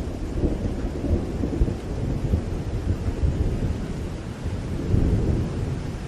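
Rain falling under a continuous low rumble of thunder that swells about five seconds in.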